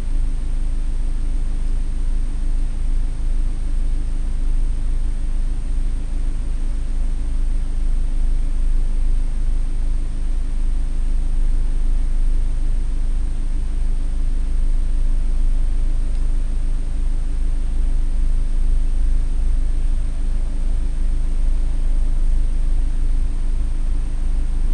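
Car engine idling steadily while the car stands still, heard from inside the cabin as a low, even rumble, with a thin steady high whine over it.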